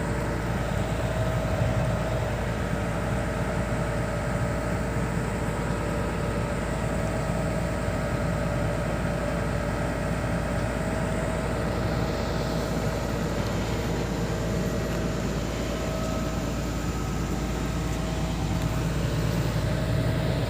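Hydraulic excavator's diesel engine running steadily at a constant speed.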